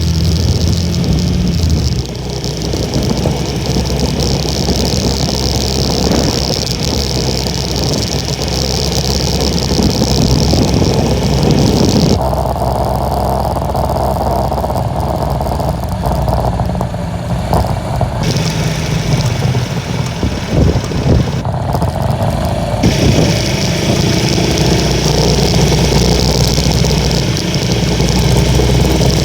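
Honda Little Cub's small single-cylinder four-stroke engine running on the road, mixed with a steady rush of strong wind on the microphone.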